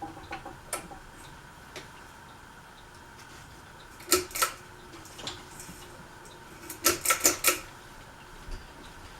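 A series of sharp mechanical clicks over a faint steady hum: a few light ones at the start, two loud ones about four seconds in, and four quick loud ones about seven seconds in.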